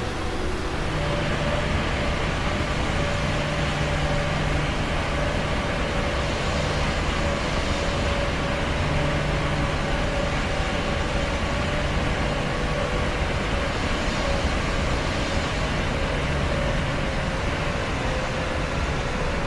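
Steady noise of a moving vehicle: an even rush with a faint constant hum, unchanging in level.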